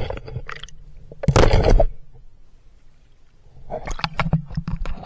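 Water splashing and sloshing close to the microphone as a swimmer moves through a river, with one louder splash about a second and a half in and a run of smaller splashes near the end.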